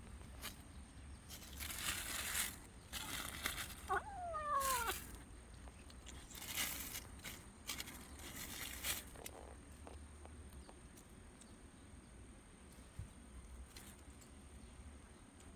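A cat meows once about four seconds in, a short call falling in pitch. Bursts of rustling and crunching, like movement through dry leaves and undergrowth, come before and after it.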